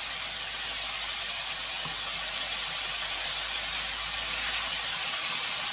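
Breaded chicken tenders frying in hot oil: a steady, even sizzle, the tenders just turned to cook their second side.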